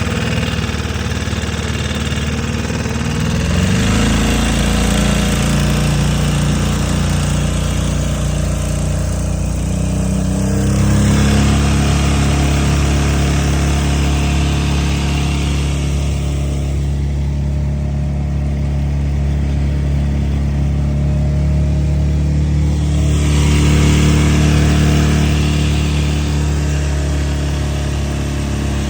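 Hangkai 6.5 hp four-stroke outboard motor running, its pitch rising about four seconds in and again around eleven seconds, then holding steady.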